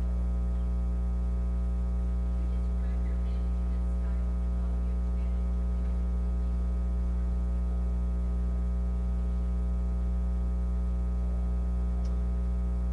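Steady electrical mains hum: a constant low buzz with a ladder of evenly spaced overtones, unchanging throughout.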